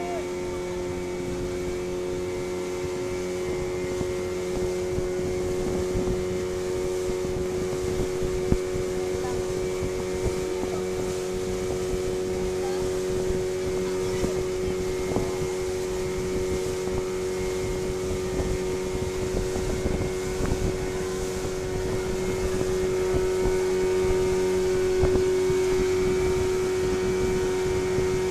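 Fishing boat engine running steadily at an even pitch, with wind buffeting the microphone.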